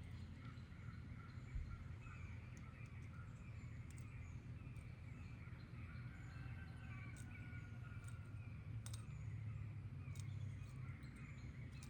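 Faint outdoor ambience: distant birds chirping and warbling over a steady low rumble, with scattered light clicks.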